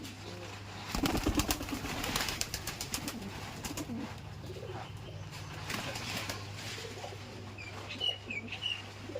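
Domestic pigeons cooing in low, scattered calls, with a brief flurry of sharp clattering about a second in and a few short high chirps near the end, over a steady low hum.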